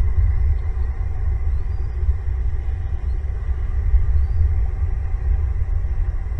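Steady low rumble with a few faint, short high chirps, likely from birds.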